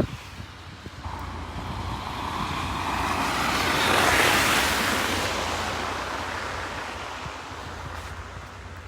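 A car passing on a wet, salted, slushy street: tyre hiss swells up to a peak near the middle and fades away, over a low rumble.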